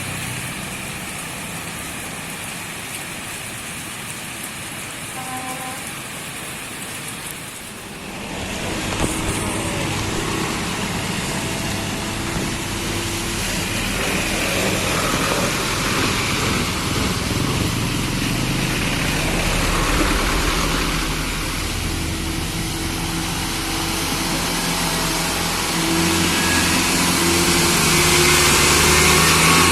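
Motor vehicle traffic: engines running and passing, quieter at first and getting louder about eight seconds in, rising further near the end.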